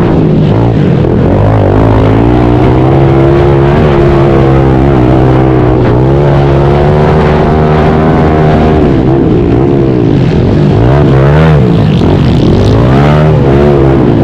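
Pit bike engine revving hard, its pitch climbing and dropping again and again as the throttle opens and closes, with quicker dips and climbs in the second half.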